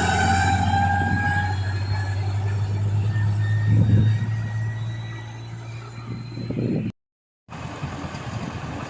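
Massey Ferguson tractor engine running with a steady low hum and a faint high whine, pulling a sugarcane-loaded trolley. The sound fades after about five seconds, cuts out for a moment near seven seconds, then returns quieter and rougher.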